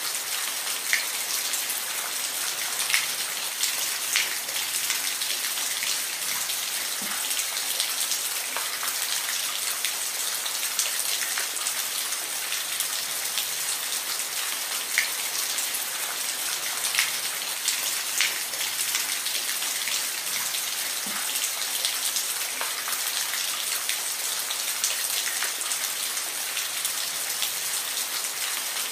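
Steady rain: an even hiss of rainfall with many separate drops ticking sharply on a hard surface close by.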